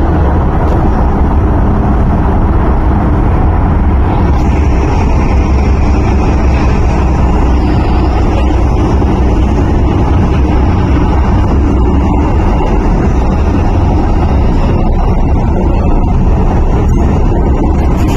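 MTR Island Line M-Train heard from inside the car while running: a steady, loud rumble of wheels on track and running gear. A faint whine rises in pitch from about four seconds in.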